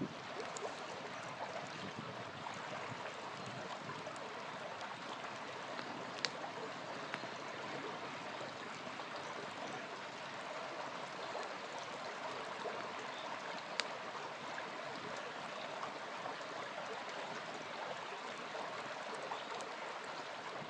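A small river flowing steadily, with a campfire crackling over it: a few sharp pops, the loudest about 6 and 14 seconds in.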